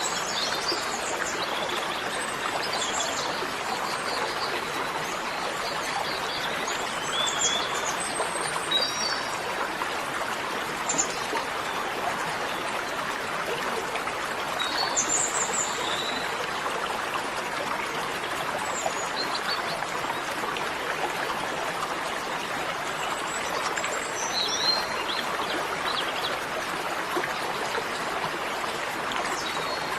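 Steady running water of a stream, with birds chirping in short scattered calls over it.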